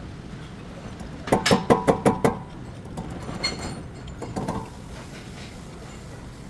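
A rapid series of about seven ringing metallic knocks lasting about a second, followed by a few quieter knocks and clinks.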